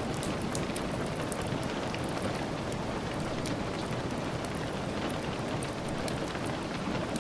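Steady rain, an even hiss with many sharp little ticks scattered through it.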